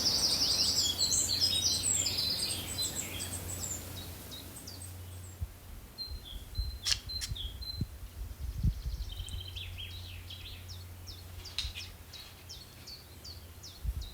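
Birds chirping and calling, a dense overlapping chorus of quick high chirps for the first few seconds, thinning to scattered chirps after that, over a faint steady low hum.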